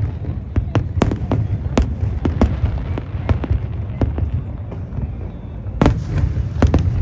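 Aerial fireworks bursting in quick succession: a steady low rumble of booms with many sharp bangs and cracks, easing off briefly a little after the middle before a strong bang near the end.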